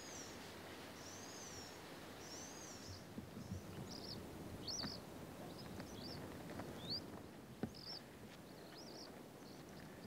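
Small birds calling over a steady background hiss. A run of high, arching chirps comes in the first few seconds, then shorter rising chirps follow about every half second.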